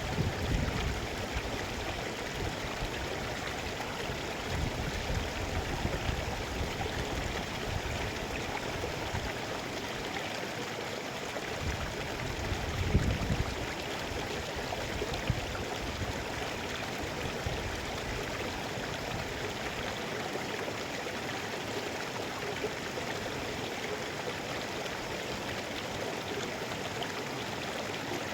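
Mountain river flowing steadily, a continuous rush of water, with a few brief low rumbles at the start and about halfway.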